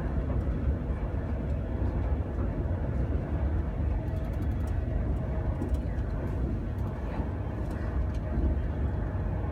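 Steady low rumble of a Pendolino (Class 390) electric train in motion, heard from inside the passenger carriage, with a faint steady hum over it.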